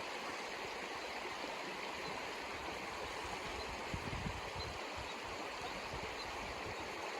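Mountain creek rushing steadily, with a brief low thump about four seconds in.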